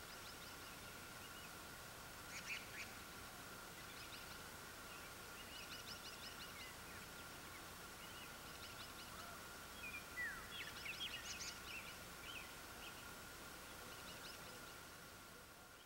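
Wild birds chirping and calling, with short clusters of quick high chirps every second or two over a faint steady whine and a low hiss, fading out near the end.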